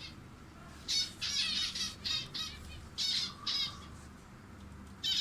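Small birds calling in a series of short, rapid, high-pitched chirping phrases, several in quick succession, then one more near the end.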